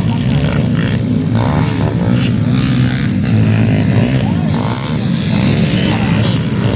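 Underbone motorcycles racing on a motocross track, their engines revving up and down in rising and falling whines as the bikes pass.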